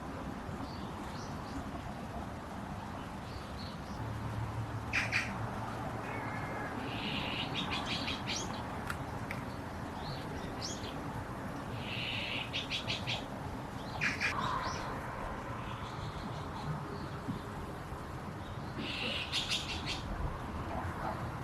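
Birds chirping in short bursts of quick chatter, several times over steady background noise.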